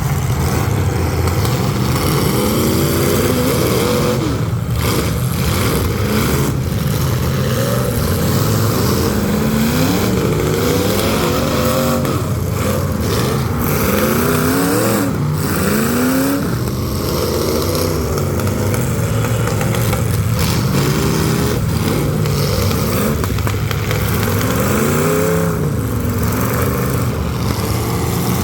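Engines of several full-size demolition derby cars running at full throttle, revving up and down over and over with overlapping rising and falling pitches, over a steady low rumble.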